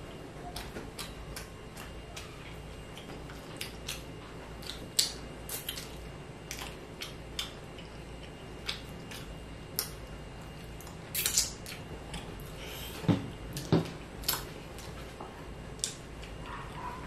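Chewing and wet mouth clicks and smacks as a man eats fish balls, coming as scattered short sharp sounds over a low steady hum, with a few louder clicks about two-thirds of the way in.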